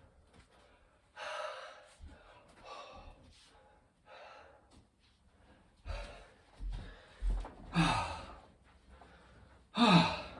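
A man breathing hard in heavy gasps, one breath every second or two, recovering after a set of burpees; near the end a breath comes out as a louder voiced sigh.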